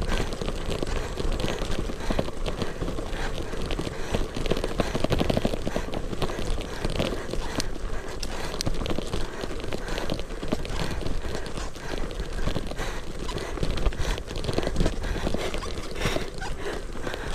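Gravel bike riding over a rough surface: a steady run of rattling knocks and clatter from the bike and tyres, over constant rumbling road and wind noise.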